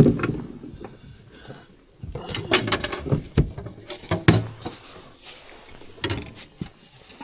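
Irregular knocks and clatter, as of objects being handled and set down, with several short sharp clicks.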